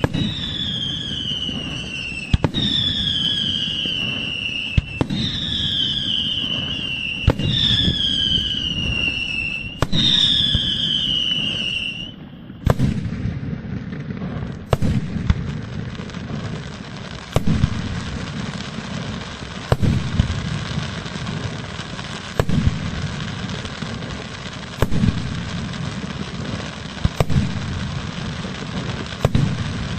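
Fireworks going off, with a sharp bang about every two and a half seconds. Each of the first five bangs is followed by a falling whistle lasting about two seconds. From about twelve seconds in, the whistles stop and the bangs carry on at the same pace over a steady crackle.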